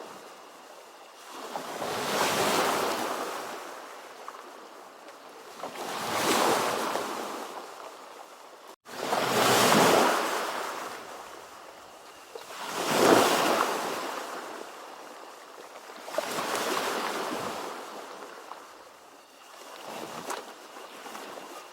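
Ocean waves breaking and washing up, each surge of rushing surf swelling and fading about every three to four seconds, six in all. A momentary cut-out in the sound about nine seconds in.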